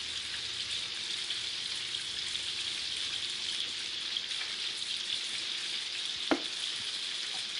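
Chicken pieces frying in hot grease: a steady, even sizzle, with one short knock about six seconds in.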